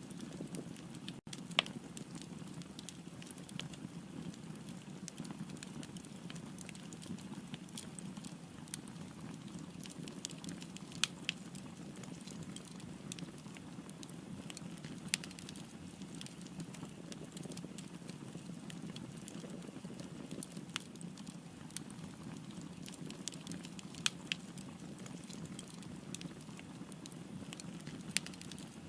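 Wood fire burning, with a steady low rush of flame and scattered sharp crackles and pops, a handful of them louder than the rest.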